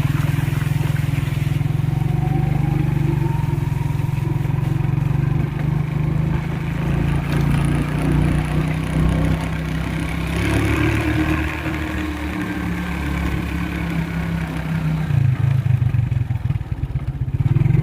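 Motorcycle engine running while being ridden, its pitch dipping and rising several times with the throttle.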